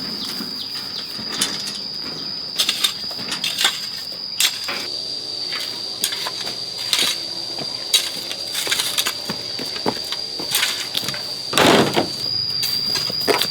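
Insects droning in one steady high note, over scattered knocks and scrapes of hand tools working soil to raise an earthen floor, with one louder strike about twelve seconds in.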